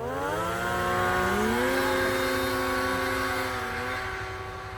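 Snowmobile engines at high revs, climbing in pitch at the start and then holding high, with a second engine note rising about a second and a half in.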